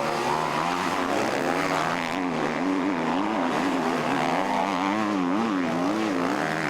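Motocross bike engines racing, their pitch rising and falling again and again as the throttle is opened and shut.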